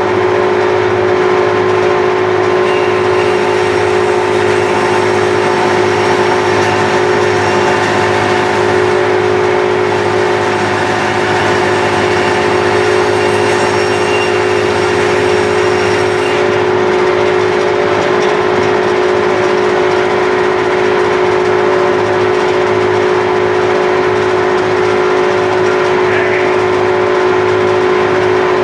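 Bandsaw running with a steady hum while cutting a log post to length; a higher hiss drops away about 16 seconds in.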